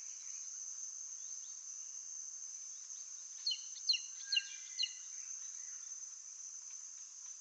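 Steady, high-pitched drone of insects, likely crickets, with a short series of about six quick bird chirps around the middle.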